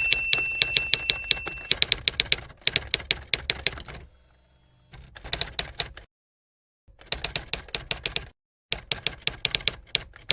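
Typewriter typing sound effect: runs of rapid, even key clicks, about seven a second, broken twice by sudden dead silence. A bell-like ding rings at the very start.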